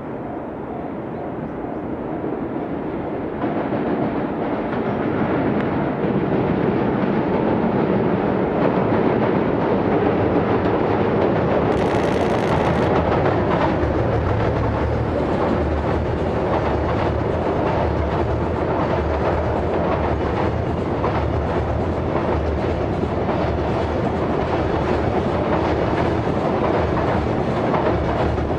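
Container freight train hauled by an EF210 electric locomotive crossing a steel-girder railway bridge: a rumble that builds over the first few seconds as it approaches, then a steady heavy rumble with the clickety-clack of wheels over the rail joints as the long line of container wagons passes.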